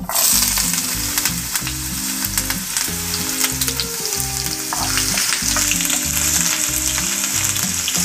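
Ginger and garlic dropped into hot coconut oil with mustard seeds and red chillies: the oil bursts into loud sizzling all at once and keeps frying steadily, with scattered small clicks of stirring in the pan.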